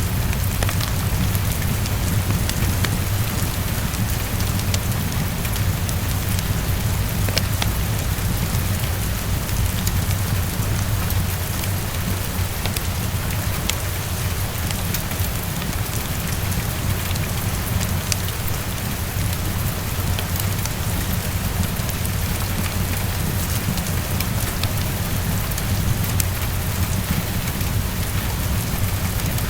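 Heavy rain falling steadily against a window, with scattered small sharp ticks and a steady low rumble underneath.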